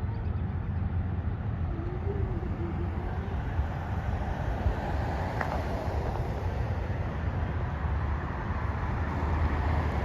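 Freight train's diesel locomotive running past, a steady low rumble with rail noise that grows louder near the end.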